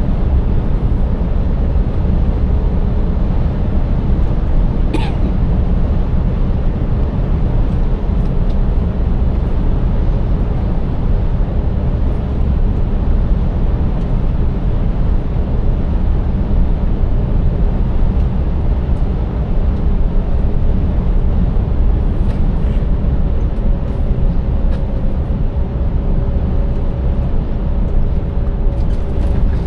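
Scania 590S truck's 16-litre V8 engine and road noise at a steady cruise: an even low rumble with a faint steady whine over it, and a single brief click about five seconds in.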